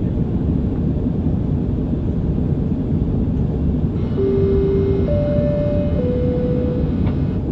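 Steady low rumble, such as distant jet engine noise mixed with wind. About four seconds in, three steady held notes sound one after another, low, then high, then middle, each lasting about a second.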